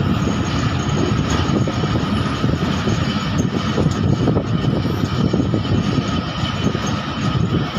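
Passenger train moving along the track, heard from an open coach window: a steady noise of the wheels running on the rails mixed with air rushing past.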